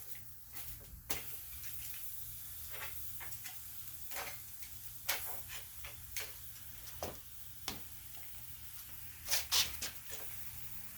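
Scattered sharp clicks and light taps at a charcoal grill, irregular and unhurried, with a louder pair about nine and a half seconds in, over a faint steady low hum.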